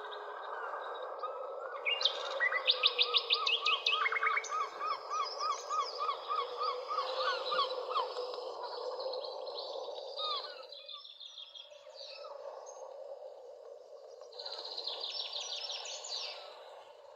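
Several birds singing over a steady background hiss: fast high trills, and a run of repeated chirps at about four a second in the first half, with another high trill near the end.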